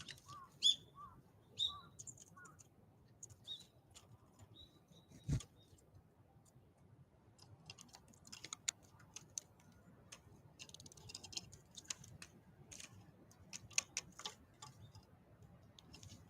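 Small wild birds calling: a run of short, evenly repeated chirps with a few higher notes over the first few seconds, then scattered faint ticks and taps.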